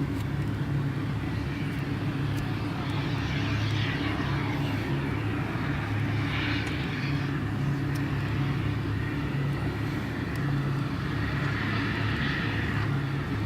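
Radio-controlled model aircraft flying at an air show. Their engine noise swells and fades as they pass, about three times, over a steady low hum.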